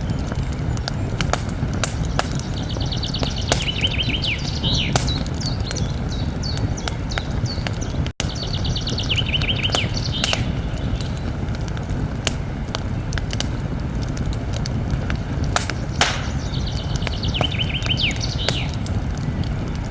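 Campfire burning with a steady low rumble and scattered sharp crackles and pops. A songbird sings the same short trilled phrase three times, and the sound cuts out for an instant about eight seconds in.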